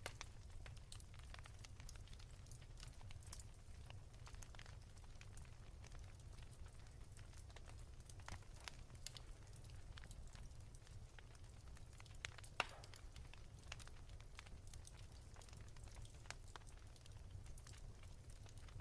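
Wood fire crackling softly: scattered small pops and snaps over a low steady rumble, with one sharper pop about twelve seconds in.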